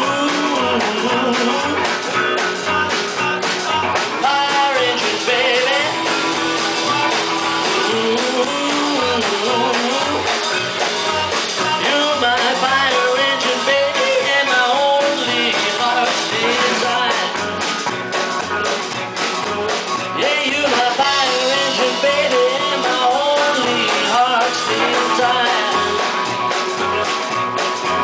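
Live rock-and-roll band playing an instrumental break, a lead line bending up and down over a steady bass and drum beat.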